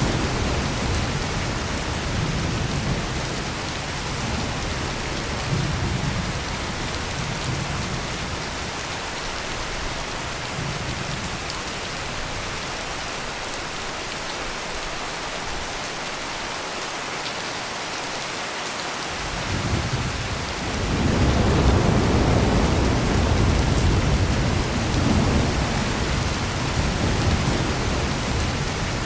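Heavy rain pouring steadily, with thunder rumbling low underneath. The first rumble dies away, and about two-thirds of the way through a louder roll of thunder swells in and slowly fades.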